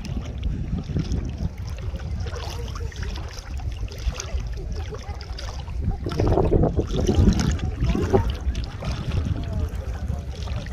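Wind buffeting the microphone in a steady low rumble, over water splashing and lapping at the sea's edge, busier for a couple of seconds past the middle.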